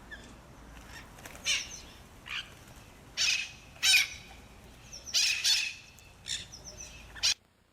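Conures at a bird feeder giving about eight short, loud calls, singly and in quick pairs, the loudest around the middle. The sound then cuts off suddenly near the end.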